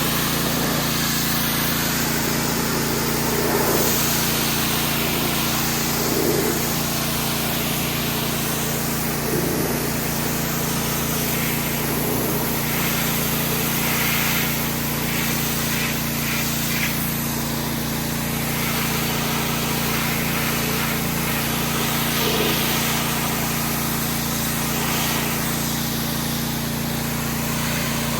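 An engine running steadily, with a constant hiss over it.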